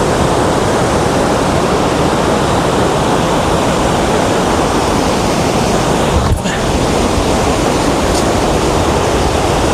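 Waterfall pouring: a loud, steady rush of falling water, with a brief low knock and momentary dip about six seconds in.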